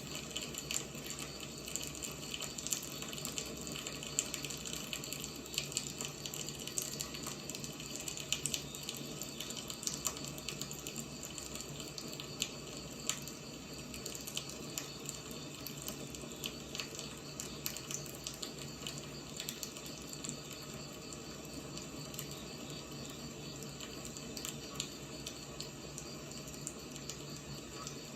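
Wood fire burning: a steady hiss with frequent small crackles and pops.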